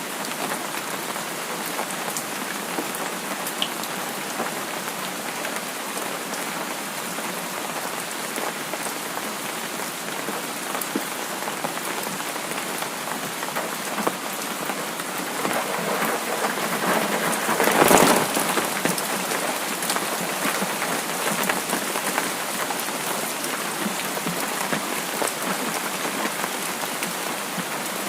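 Steady rain falling on a surface, a dense even patter of drops. It swells to a brief louder surge about two-thirds of the way through, then settles back to a steady fall.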